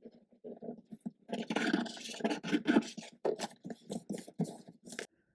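Irregular rubbing and scraping on paper as a freshly glued paper cover is pressed and smoothed down so that it sticks, with a busier stretch of strokes early in the middle.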